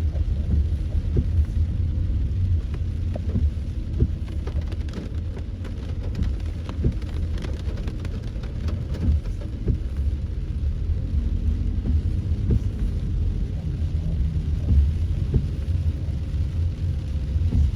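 Heavy rain striking a moving vehicle: many scattered sharp drop impacts, thickest in the middle, over a steady low rumble of engine and road.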